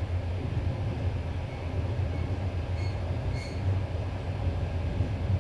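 Passenger train running on the rails, heard from aboard: a steady low rumble of wheels and carriage, with a few brief, faint high squeaks from the wheels around the middle.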